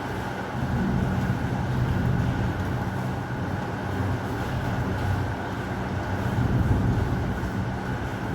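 Steady heavy rain with a low rolling thunder rumble that swells about a second in and again near the end.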